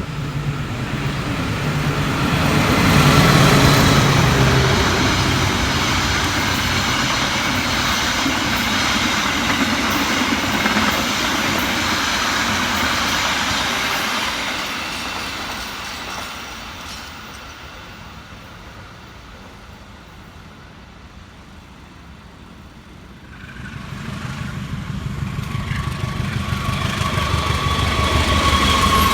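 A train passing the station: loud rumble and rattle of wheels on rail that builds in the first seconds, holds, then fades away past the halfway point. After a quieter spell, a second train's diesel locomotive is heard approaching, its engine hum growing louder near the end.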